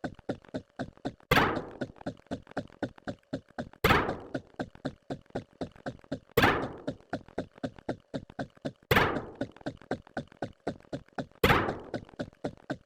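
A repeating sound-effect loop: a loud thunk about every two and a half seconds, five in all, each with a short ringing tail, with quick, quieter ticks of about six a second in between.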